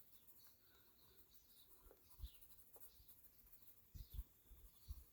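Faint birds chirping in short calls in the background, with the soft scratch of coloured pencil on sketchbook paper. A few soft low thumps come about two seconds in and again between four and five seconds.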